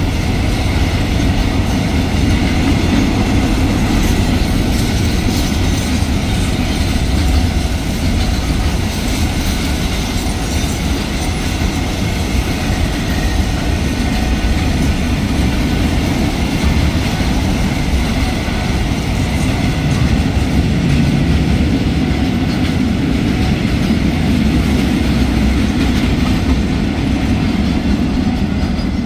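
Container wagons of a freight train rolling past close by: a loud, steady rumble of steel wheels on the rails that does not let up.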